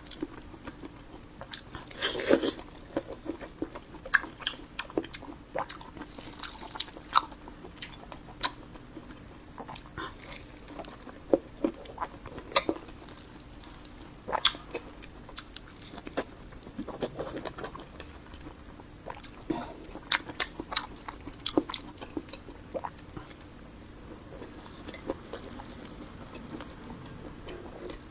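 Close-miked eating: biting and chewing crystal cured pork, with many sharp crunching clicks at irregular intervals and a louder run of bites about two seconds in.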